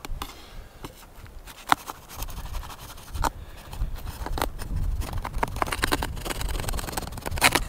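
Scattered clicks and scrapes from hands working at the tent fabric while a hole for the stove pipe is being enlarged. There is a steady low rumble underneath, a sharp click about two seconds in, and a louder burst of scraping near the end.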